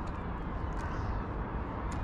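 Steady outdoor background noise: a low rumble with a faint hubbub and a few light ticks.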